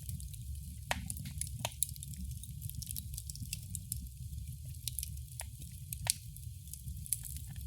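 Wood fire crackling in a fireplace: scattered sharp pops and snaps over a steady low rumble of the flames and a faint hiss.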